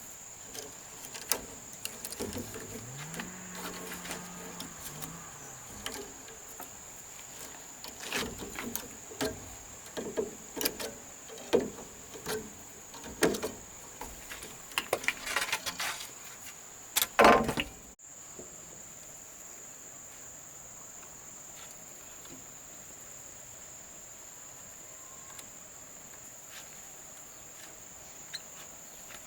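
Insects trilling steadily and high, with scattered knocks and clatter over the first two-thirds; the loudest knock comes just before the clatter stops.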